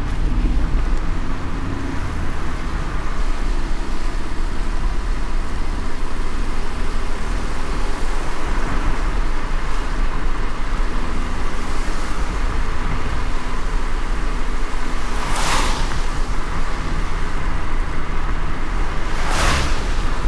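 A car driving in light rain: a steady low road-and-engine rumble under an even hiss of rain and wet tyres. Near the end come two short swishes about four seconds apart.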